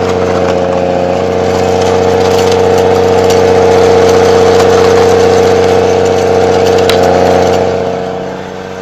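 Snowcat engine running steadily under load with a strong droning hum, heard from inside the cab. It grows louder through the middle, then eases off near the end.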